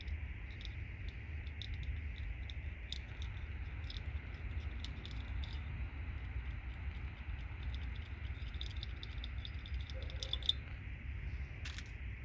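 Scattered small clicks and ticks of plastic RJ45 connectors and thin metal pins being worked loose by hand, one slightly sharper click about ten seconds in, over a steady low hum.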